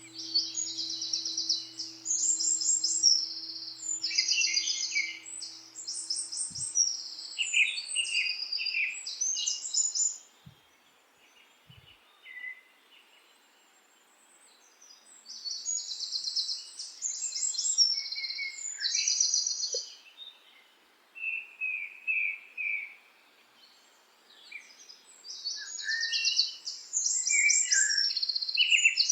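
Forest songbirds singing in bursts of rapid, high trilled phrases, with a few quiet pauses between them, over a faint background hiss.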